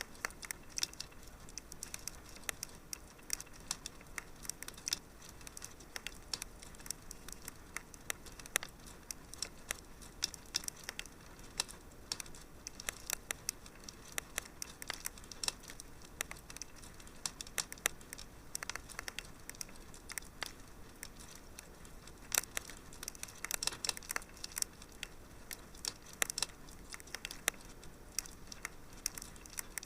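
Wood fire crackling steadily in a fireplace: irregular sharp pops and snaps over a soft hiss.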